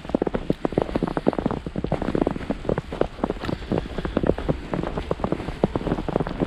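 Boots crunching through snow as people walk, a dense run of crackling clicks with a low wind rumble underneath.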